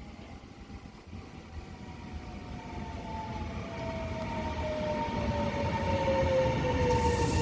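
Train approaching, growing steadily louder, with a whine that slowly falls in pitch. A high hiss joins near the end.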